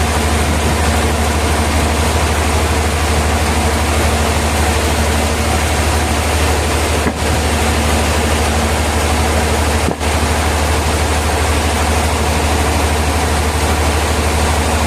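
Sawmill machinery running with a steady drone and a strong low hum; the sound dips for an instant twice, about seven and ten seconds in.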